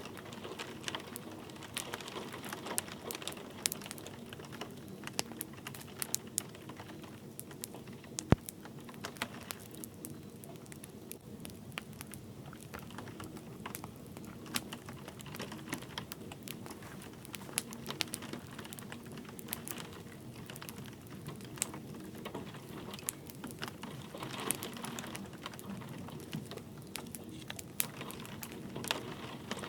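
Wood fire crackling with scattered sharp pops, one much louder about eight seconds in, over the steady soft hiss of light rain.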